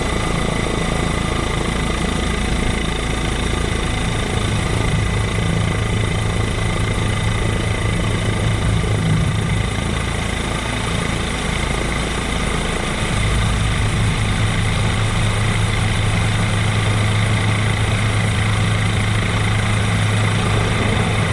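Helicopter engine and rotor noise: a steady, loud drone with a low hum and a thin high whine, the low hum shifting about two-thirds of the way through.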